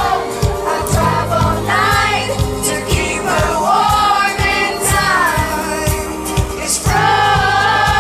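A male pop vocal group singing live over a full band, with a steady drum beat and bass underneath.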